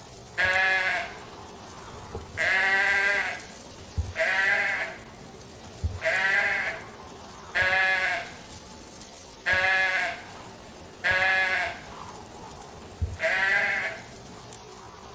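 A sheep or goat bleating: about eight separate bleats, each roughly a second long and quavering, repeated about every two seconds.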